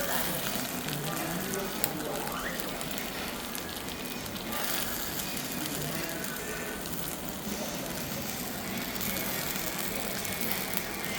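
Wood fire crackling steadily with scattered small pops, with faint voices in the background.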